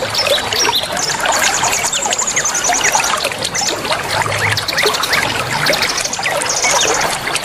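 Many small songbirds chirping and calling over a steady rush of trickling water. A rapid, high, buzzy trill runs for about two seconds starting a second in, and a shorter one comes near the end.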